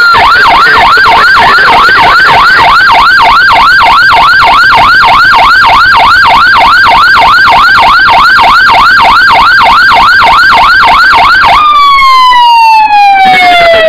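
Scania fire-rescue truck's siren sounding loud and close on an emergency run, in a fast yelp of about three rapid pitch sweeps a second. Near the end it switches to one long tone falling steadily in pitch.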